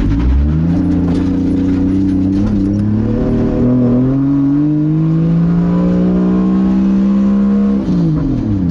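Turbocharged 2JZ-GTE inline-six in a Nissan 240SX accelerating gently in gear, its revs climbing slowly and steadily for about seven seconds, then dropping quickly near the end at an upshift.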